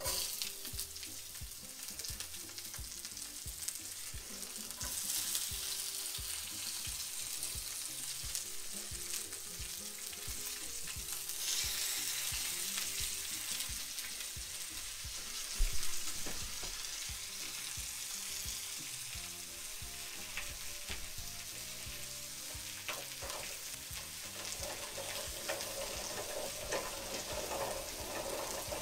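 Sliced vegetables dropped into a frying pan of hot oil, sizzling and frying steadily, with the sizzle swelling louder twice. A single sharp knock about halfway through.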